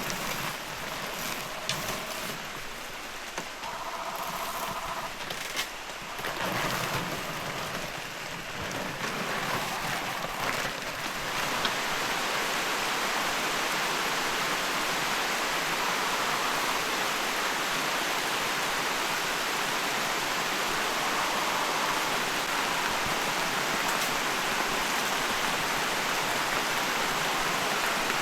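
Rain falling, uneven at first with a few knocks, then from about eleven seconds in a steady, heavier downpour.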